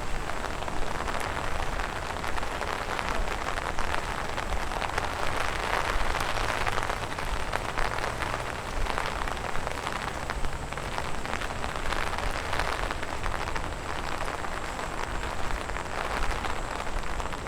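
Steady rain falling, a dense, even spatter of many small drop ticks.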